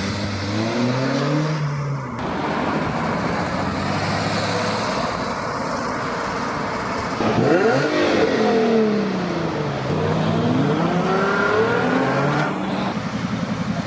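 Car engines revving and accelerating at a car meet, their pitch rising and falling several times. The loudest moment comes about seven and a half seconds in, where a sharp rise in pitch is followed by a falling sweep.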